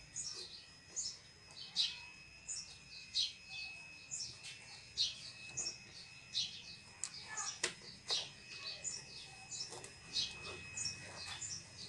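Small birds chirping over and over, short high chirps that drop in pitch. A few light clicks of wires and clips being handled at the battery terminals come a little past the middle.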